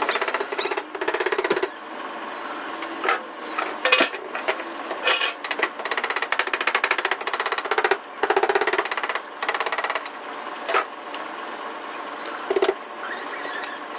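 Rapid mechanical tapping in bursts of about a second, with a few single sharp knocks between, typical of a power hammering tool working dented car body metal.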